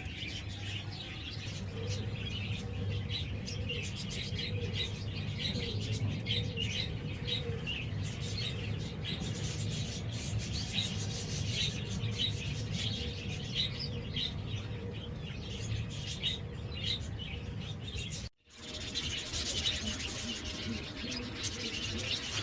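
Small birds chirping repeatedly over a low steady hum. The sound cuts out briefly about eighteen seconds in.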